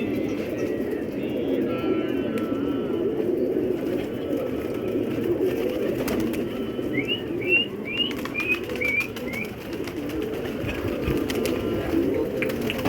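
A flock of domestic pigeons cooing together in a continuous low murmur. About seven seconds in comes a quick run of about eight short, high chirps from a bird.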